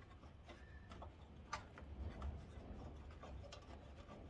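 Faint, scattered clicks and taps of screws and a hand ratchet being handled, over a low steady rumble.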